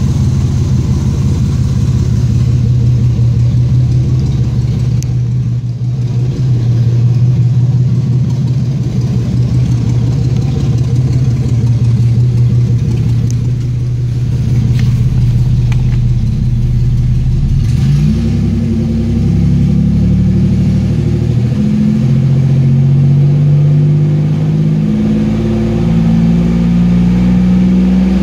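The 3.4-litre pushrod V6 of a 2004 Pontiac Grand Am runs at a steady speed. About two-thirds of the way through it is revved up and held at around 2,500 rpm, its pitch stepping up and down slightly.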